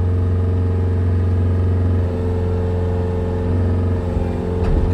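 An engine running steadily at a constant speed, a low even hum. A faint knock comes near the end.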